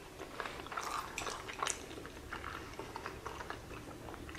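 Close-miked chewing of a mouthful of spicy salmon sushi roll: soft mouth sounds with small, irregular clicks, busiest in the first couple of seconds.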